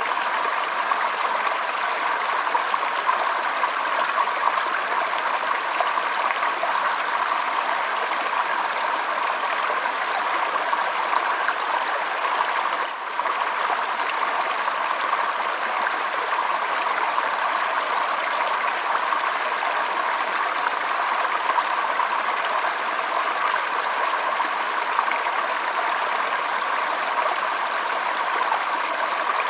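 Running water flowing steadily, an even unbroken rush, with a momentary drop in level about thirteen seconds in.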